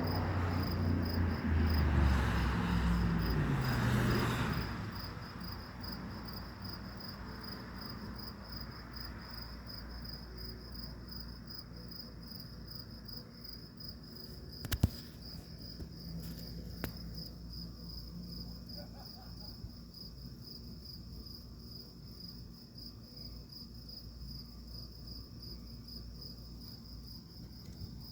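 Thunder rumbling and dying away over the first five seconds or so, while insects chirp in a steady pulsing trill throughout. Two short sharp clicks come about midway.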